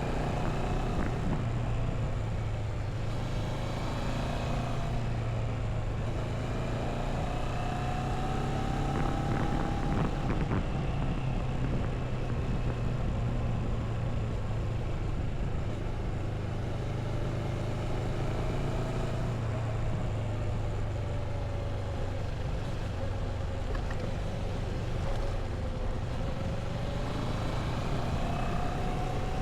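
Motorcycle engine running steadily on the move, its pitch slowly rising and falling as the speed changes, under the rush of wind and road noise.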